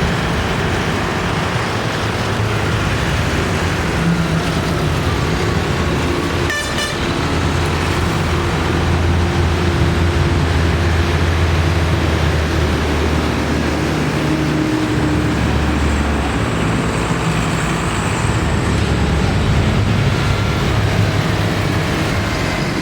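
Tractor engines running, a steady low drone, with a single sharp click about seven seconds in.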